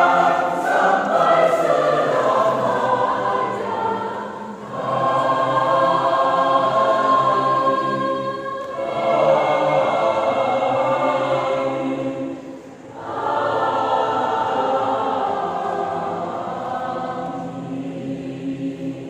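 Church choir singing, in long held phrases with three brief breaks between them; the final chord dies away near the end.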